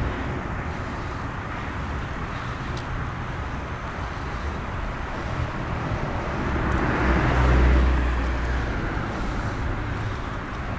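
Road traffic noise with a steady low rumble, swelling and fading as a car passes about seven to eight seconds in.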